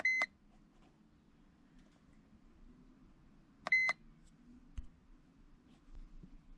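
Two short electronic key beeps from a handheld iCarsoft car diagnostic scan tool as its buttons are pressed, one at the start and one nearly four seconds later, over a faint low hum.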